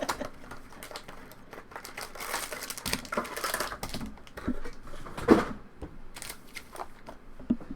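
Trading-card pack wrappers crinkling and cards being handled and shuffled, with scattered clicks and one louder knock about five seconds in.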